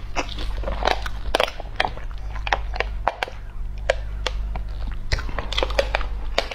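Close-miked chewing of a large steamed bun (baozi) with kidney-bean filling: wet mouth clicks and smacks, several a second.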